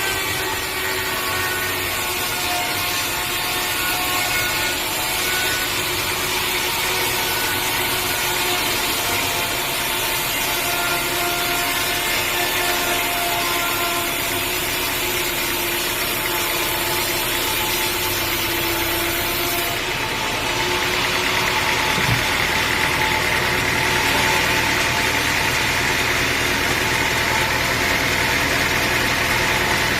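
Sawmill cutting through a log, the saw blade running over a steady engine. The sound changes abruptly about two-thirds of the way through.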